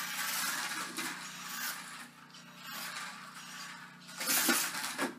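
WLtoys L939 mini RC truck driving over a floor: its small electric motor and plastic gears whirring and its wheels scraping and rattling. The sound is louder for the first couple of seconds, eases off, then comes back in a louder burst about four seconds in.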